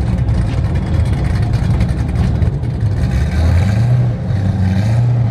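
Loud vehicle engine and exhaust rumbling close by, its pitch rising about three seconds in as the engine is given more throttle.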